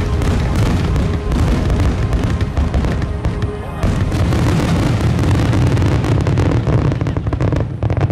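A dense fireworks barrage: many rapid, overlapping booms and crackling bursts with a heavy low rumble, stopping abruptly at the end.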